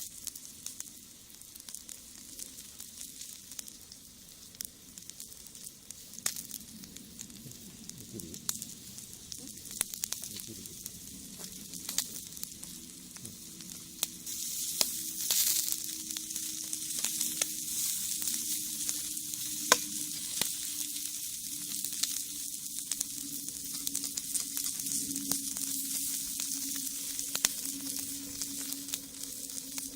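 Shishamo sizzling on a wire grill net over a wood fire in a brick rocket stove, with scattered sharp crackles and pops. The sizzle grows louder about halfway through.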